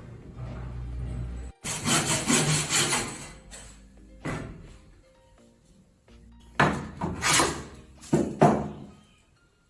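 A hand tool working wood in rasping strokes: a quick run of strokes about two seconds in, then shorter groups of strokes later. Background music plays underneath.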